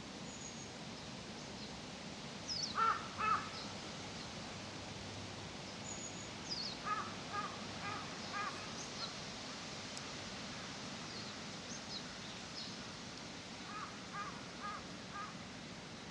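Crow cawing in three bouts: two loud caws about three seconds in, a run of about six quicker caws around the middle, and four fainter caws near the end. Small birds chirp high and thin in between, over a steady outdoor hush.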